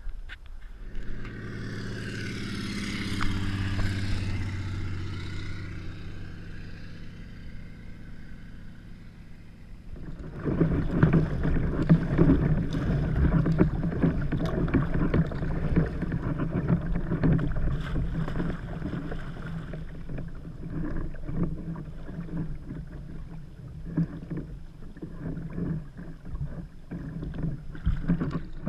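A motor passes over the first several seconds, its even pitched hum drifting slowly. Then, from about ten seconds in, kayak paddling takes over: water splashing and slapping with a rumble of wind on the camera microphone.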